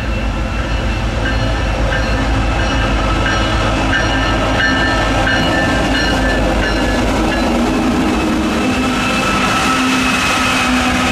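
Freight train led by BNSF diesel locomotives passing close by: engines running, steel wheels rolling on the rails. The sound holds at a steady loud level, with more of a high rolling hiss near the end as the units go by.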